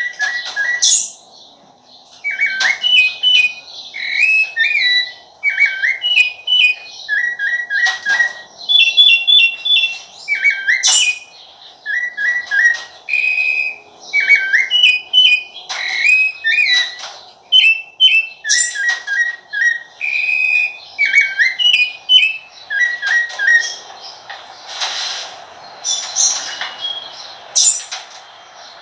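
Rufous-bellied thrush (sabiá-laranjeira) singing: a long run of clear whistled phrases, short repeated notes and swooping notes, with brief pauses between phrases.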